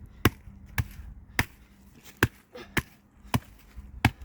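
A wooden stick being struck hard and repeatedly against something to try to break it: seven sharp knocks, a little over half a second apart.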